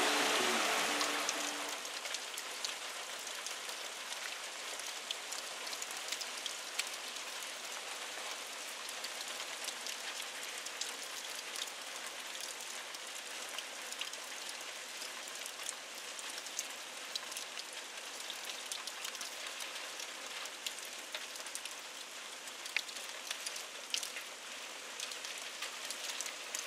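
Steady rain falling, a fine hiss with many individual drops ticking sharply all through. A louder sound with a low hum fades out over the first two seconds.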